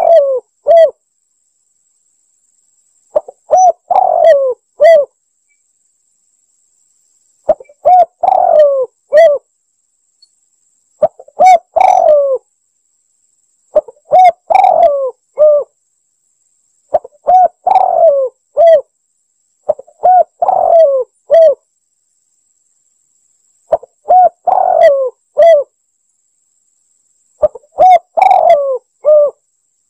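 Spotted dove (tekukur) cooing: a recorded lure call with about nine short phrases of several coos each, repeated every three to four seconds with silence between. A faint high steady whine runs underneath.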